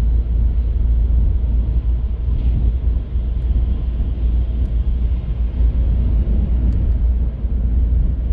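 Car driving on city streets: a steady low rumble of road and engine noise.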